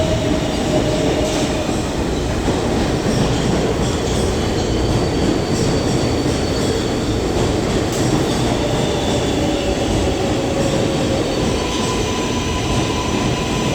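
New York City Subway 7 train running alongside the platform as it pulls in, a steady loud rumble of steel wheels on rail with a faint thin wheel squeal over it.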